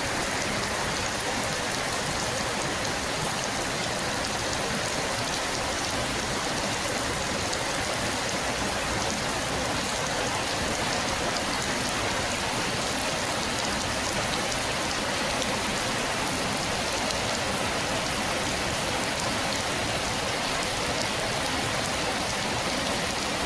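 Steady rain falling, an even hiss made of many small drop impacts.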